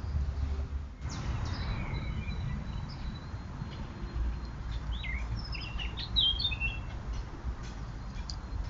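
Several songbirds singing and chirping, with quick high warbled notes thickest past the middle, over a steady low background rumble.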